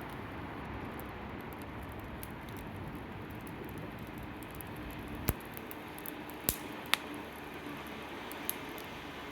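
Wood fire of avocado-tree prunings and scrap timber burning with a steady hiss, with four sharp crackling pops in the second half.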